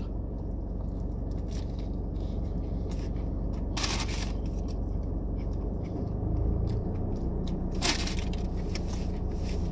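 A person chewing a mouthful of a chicken strip sub, with small crunching sounds over a steady low hum, and two brief louder noisy bursts, about four and eight seconds in.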